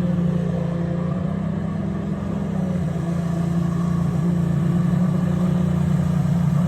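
Watercraft engine running steadily at a constant low pitch, growing a little louder toward the end.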